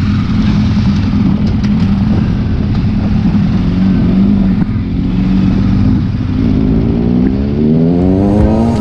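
Motorcycle engine running steadily at a cruising pace, then rising in pitch for the last couple of seconds as the bike accelerates.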